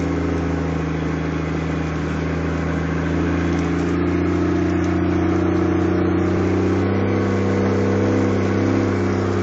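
Toyota 4x4's engine heard from inside the cabin, pulling steadily at a constant pitch as the vehicle drives across soft desert sand.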